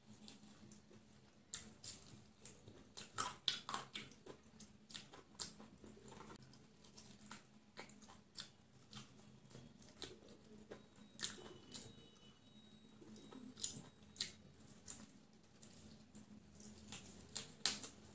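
A person biting and chewing crispy fried chicken: irregular crunches and wet mouth clicks, in clusters.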